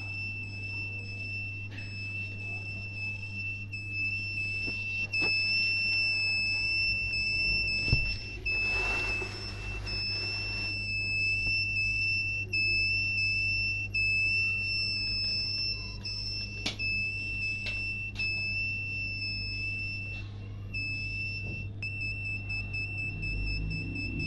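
Piezo buzzer of a homemade rain alarm sounding one continuous high-pitched tone, set off by water on the rain sensor, with a few clicks and a short hiss partway through.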